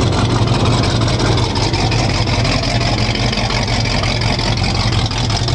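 Truck engine running steadily: a low, even drone with a rough hiss over it.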